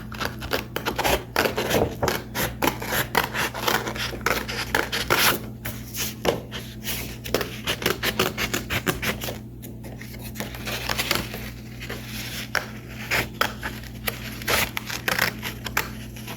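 Scissors cutting paper: a long run of quick snips as a shape is cut out, with brief pauses partway through.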